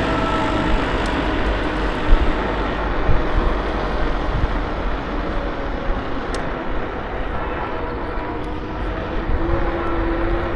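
Steady riding noise from a KuKirin G2 electric scooter in motion: wind on the microphone and tyre rumble, with faint steady whine tones and a couple of brief knocks a few seconds in.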